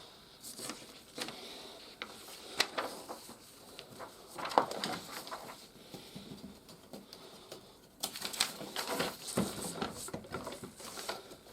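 Hard plastic toy playset parts being handled and snapped together: scattered clicks and knocks, busier in the last few seconds.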